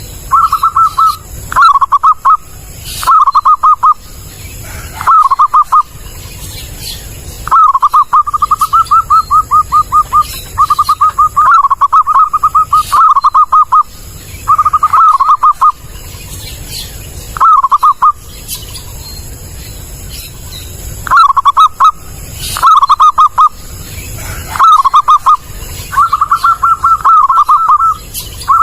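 Zebra dove (perkutut) song, loud and clear: rapid strings of rolling coo notes at one pitch, delivered in repeated bouts of a second or two, some running longer, with short pauses between them.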